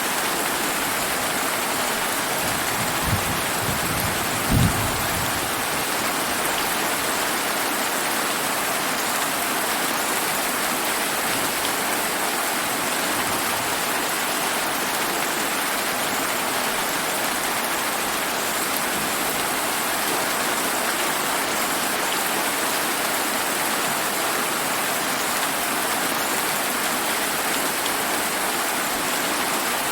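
Steady summer rain falling. Two short, low thunder thumps about three and four and a half seconds in, the second the louder.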